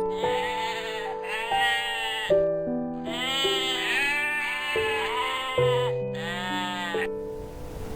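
Sheep bleating several times in a row, each call wavering, over a simple background tune.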